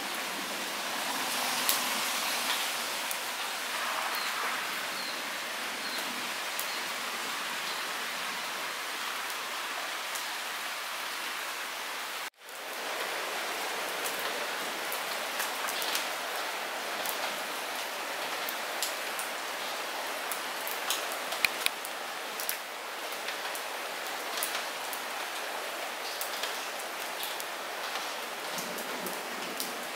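Light rain falling steadily: an even hiss with scattered sharper drop ticks, which come more often in the second half. About twelve seconds in the sound cuts out for an instant and swells back.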